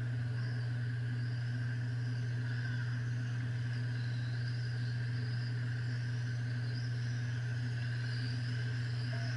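Electric radio-controlled trucks racing, their motors whining faintly and rising and falling in pitch as they speed up and slow down, over a loud steady low hum.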